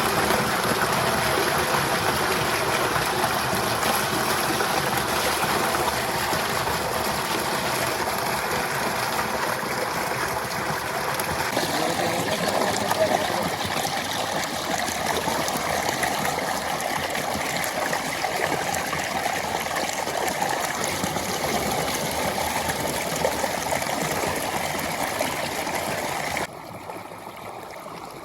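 Water running and splashing steadily while a mini tractor is washed. The sound cuts off abruptly near the end, leaving a quieter background.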